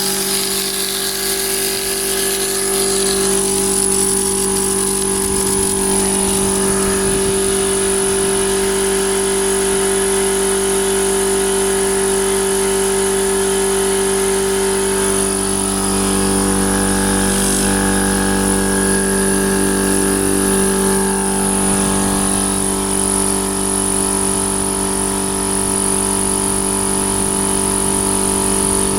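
Hawk Tools 100-litre, 3 HP twin-cylinder V air compressor running steadily, its motor and pump droning at an even pitch on its first run.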